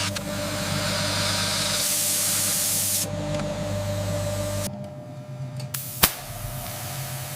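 Steady hissing machine noise over a low hum, changing abruptly several times, with a single sharp click about six seconds in.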